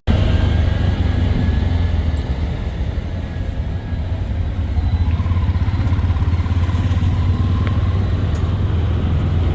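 Riding in a motorised tuk-tuk through city traffic: a steady, loud low rumble of the engine and road.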